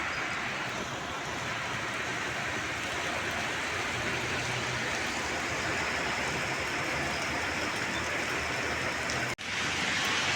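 Rain falling steadily, an even hiss. It breaks off for an instant about nine seconds in.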